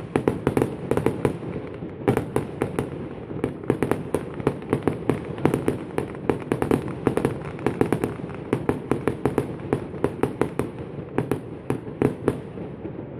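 Fireworks display: a rapid, unbroken run of sharp bangs and crackles, several a second.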